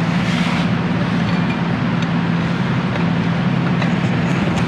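A steady mechanical hum with an even hiss underneath, holding at one level throughout.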